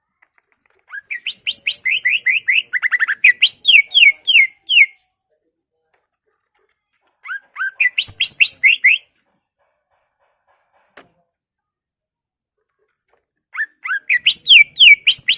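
Green leafbird (cucak ijo) singing: three loud bursts of rapid, clear, sweeping whistled notes, several seconds apart with quiet between.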